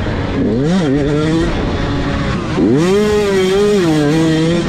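Motocross bike engines revving on the track. There is a short rise and fall in pitch just under a second in, then a sharp climb about two and a half seconds in that holds briefly and eases off near the end.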